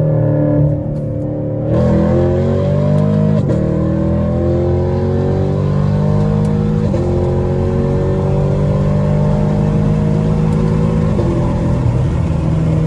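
Straight-piped Chevrolet Camaro SS V8 accelerating hard on a straightaway. The throttle opens about two seconds in, then the engine note climbs steadily and drops sharply at each of three upshifts, climbing again after each.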